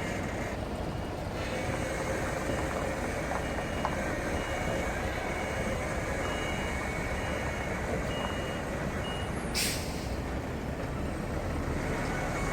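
Heavy truck manoeuvring, its reversing alarm beeping about once a second over the running engine, then a short, sharp hiss of air brakes about ten seconds in.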